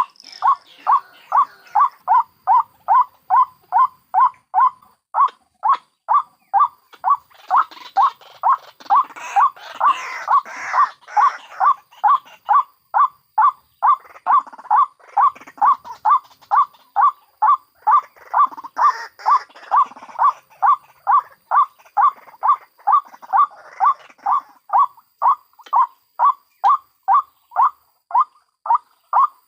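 White-breasted waterhen calling a long, even series of notes, about two to three a second. A rougher chattering of other waterhen calls joins in over it twice in the middle.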